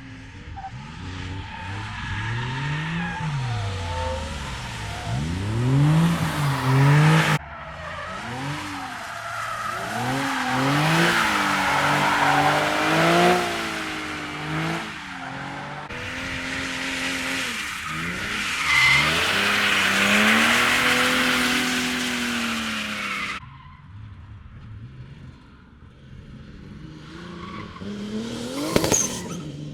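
Drift cars sliding past with engines revved hard, the engine note rising and falling quickly as the throttle is worked, over a hiss of skidding tyres. The sound switches abruptly to another car twice, with a quieter pass near the end and a sharp crack just before it ends.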